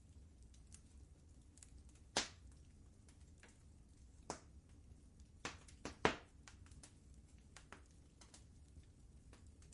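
Wood fire crackling in a fireplace: irregular sharp pops and snaps over a low steady rumble, with the loudest pops about two seconds in and about six seconds in.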